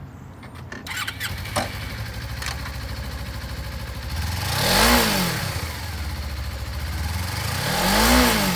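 2015 Suzuki GW250F's twin-cylinder engine starting about a second in and settling to an idle, then revved up and back down twice, once near the middle and once near the end.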